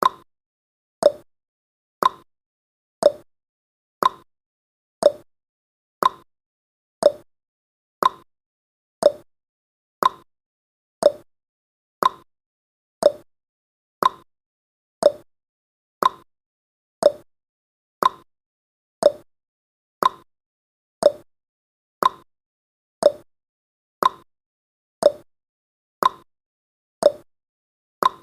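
Clock-style ticking sound effect of a countdown timer: one short, sharp tick every second, alternating higher and lower in pitch like a tick-tock.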